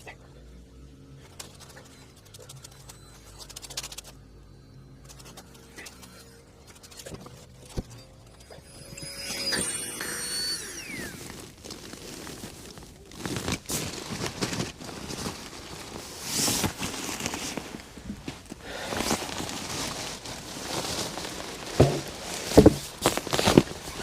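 Handling noise: irregular rustling and scraping with scattered knocks, growing busier after the first half and ending in a few sharp knocks. A brief high squeak sounds about ten seconds in.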